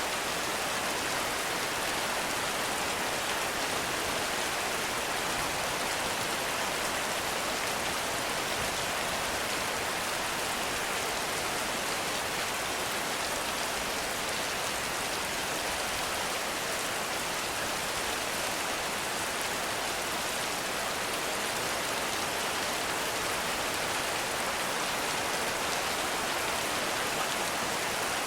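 Heavy rain falling steadily, an even hiss with no lulls or thunder.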